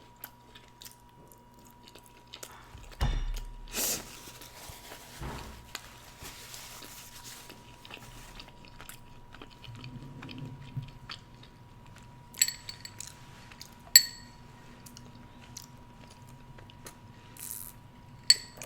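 A person eating close to the microphone: bites, chewing and soft mouth sounds, busiest a few seconds in. Three short, bright clinks ring out later on.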